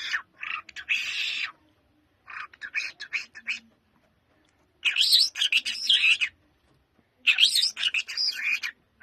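Lark singing in four bursts of rapid, varied chirping and twittering notes, each about a second and a half long, with short pauses between.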